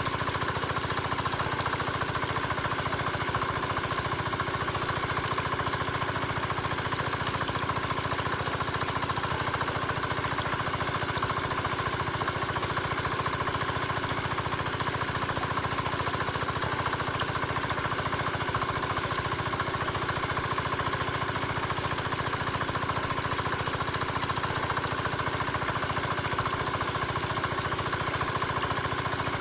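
Mini diesel engine driving a water pump, running steadily at a constant speed with a fast, even beat.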